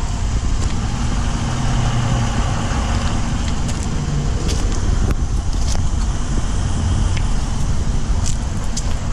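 2021 Dodge Durango R/T's 5.7-litre Hemi V8 idling steadily, a low even hum.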